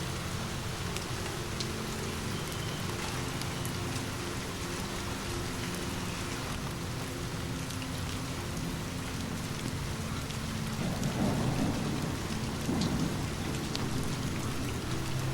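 Steady rain falling, with distant thunder rumbling up about eleven seconds in and again near thirteen seconds.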